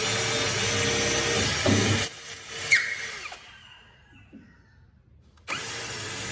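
A power tool running steadily, switched off about two seconds in with a few clicks as it winds down, then started again about five and a half seconds in.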